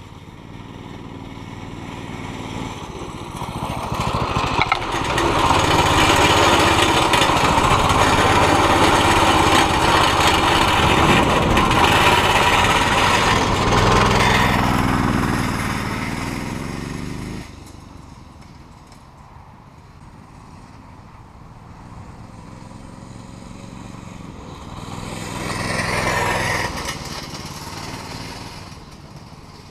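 Mini bike's small engine running under throttle. It grows louder over the first few seconds, stays loud for about twelve seconds, then drops off suddenly, with a second, shorter swell near the end.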